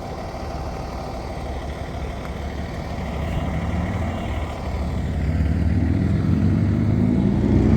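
A road vehicle's engine running and growing louder from about halfway through as it draws near.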